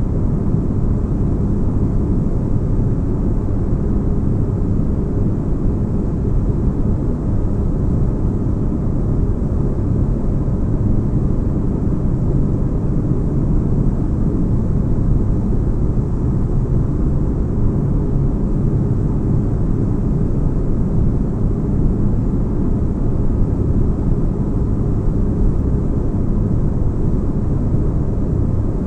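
Spaceship-interior ambience: a steady, deep bass rumble like a ship's engines heard from inside, even and unchanging, with little above a low hum.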